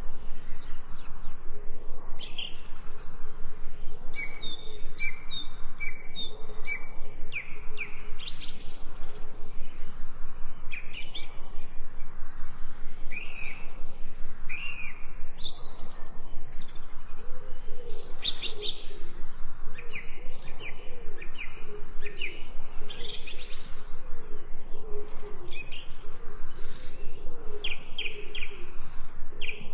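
Several forest birds chirping and singing in short, high calls and quick rising and falling whistles. Lower repeated calls run through the middle, over a steady, fast pulsing background.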